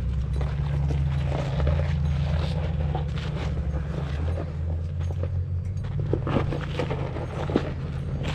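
Off-road 4x4 engine running low and steady while crawling over a rocky trail, with scattered sharp knocks and crunches of rock under the tyres.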